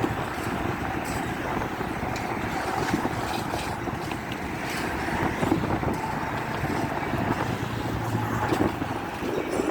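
Train rolling past with a steady rumble of wheels on the rails.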